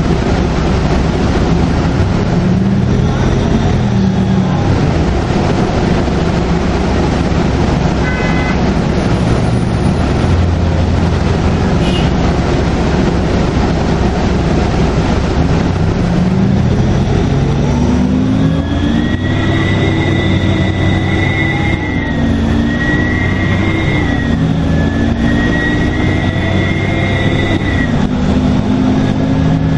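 Detroit Diesel Series 50 diesel engine of a 2002 NABI 40LFW transit bus running under steady road noise. About eighteen seconds in it pulls harder, its pitch rising and dipping, and a high turbo whistle comes in, rising and falling with the engine.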